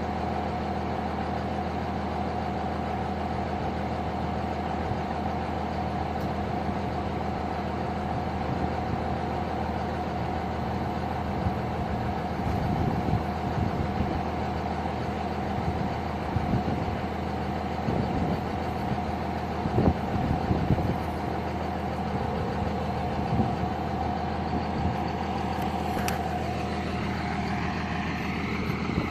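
Second-generation pickup's diesel engine idling steadily as it warms up after a cold start, with a few brief louder bumps partway through.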